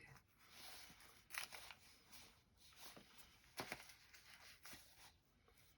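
Near silence, with a few faint, brief rustles of paper being handled.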